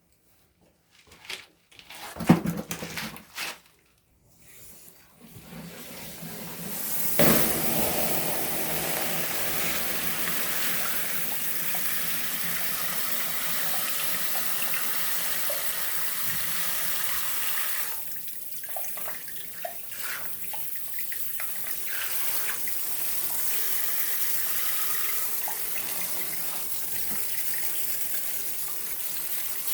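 Campfire being doused with water: a few rustles and knocks, then about seven seconds in a sudden, steady rushing hiss of water on the burning wood.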